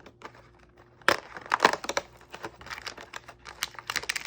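Thin plastic wrapper crinkling and tearing as an individually wrapped cat-treat packet from an advent calendar is opened: a dense run of quick crackles starting about a second in.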